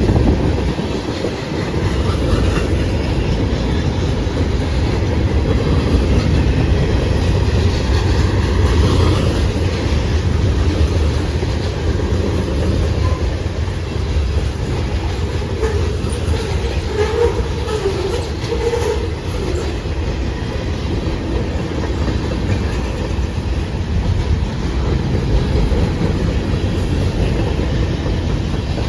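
Freight cars of a long CSX manifest train rolling past, with a steady rumble and wheels clacking over the rail joints.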